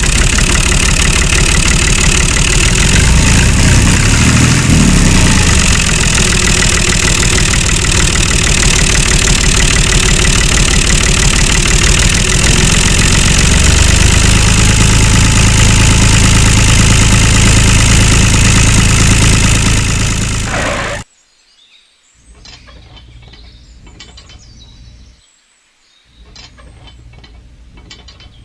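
A small engine running loudly and steadily close by, cutting off abruptly about three-quarters of the way through. Quieter scattered clicks and rattles of small mechanical parts follow.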